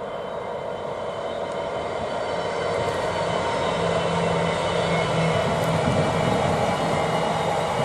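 Class 66 diesel locomotive hauling a freight train as it approaches, its engine and running noise growing steadily louder. A low steady engine hum comes up about two and a half seconds in.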